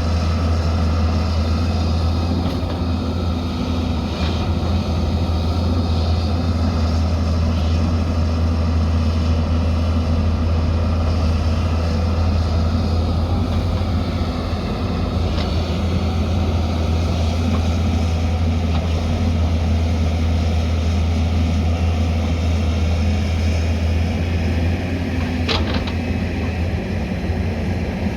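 Diesel engine of heavy earthmoving machinery running steadily under load, with a deep, even drone. There are a few light knocks and one sharp metallic clank near the end.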